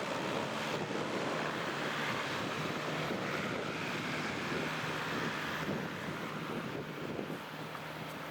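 Piper Cherokee Warrior II's four-cylinder Lycoming engine running at full takeoff power, heard inside the cabin as a steady drone mixed with rushing air noise.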